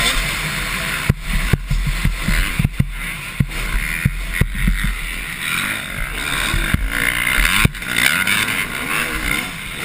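Motocross dirt bikes racing, their engines revving with rising and falling pitch, more strongly near the end. Several sharp knocks break in, a few of them about a second apart.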